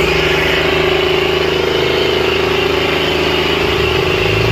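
Diesel tractor engine running steadily at a constant pitch.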